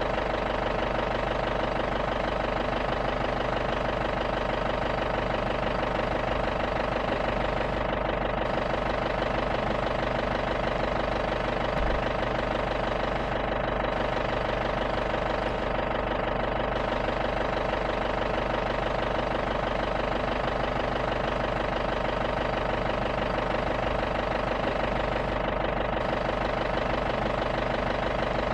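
Safari jeep's engine idling steadily, its pitch unchanged throughout.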